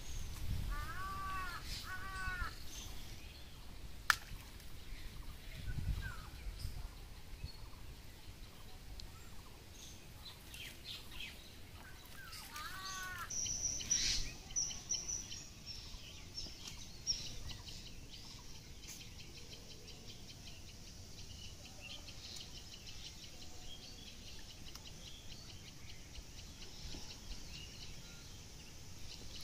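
Birds calling: a pair of short calls near the start and another around the middle, then a quick run of high chirps, followed by a faint steady high hiss. A few sharp clicks are scattered through.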